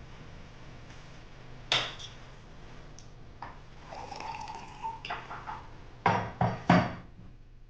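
Sharp knocks and clatter of hard objects being handled: a single knock about two seconds in, a scattered run of lighter clinks in the middle, and three loud knocks in quick succession near the end.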